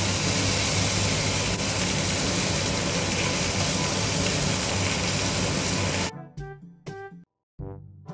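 Pork chop frying in hot oil: a loud, steady sizzle that cuts off abruptly about six seconds in. Background music plays under it and continues alone afterwards.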